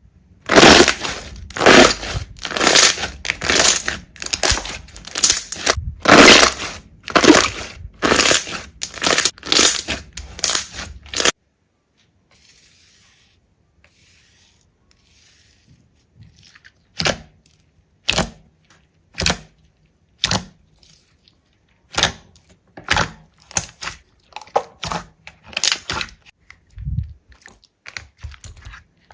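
Hands squeezing and stretching slime: a run of loud, crackling squishes about two a second that stops abruptly partway through, followed after a short pause by scattered sharp pops and clicks.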